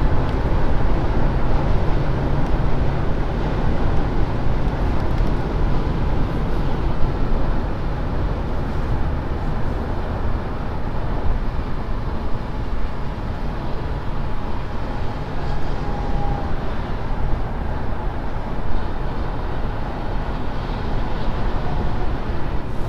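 Steady cabin noise of a Mercedes-Benz S580 cruising at high speed on the autobahn: an even rush of tyre and wind noise over a low rumble.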